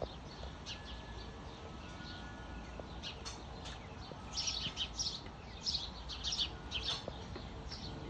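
Small birds chirping in quick, high-pitched clusters, thickest in the middle and later part, over a low steady outdoor background.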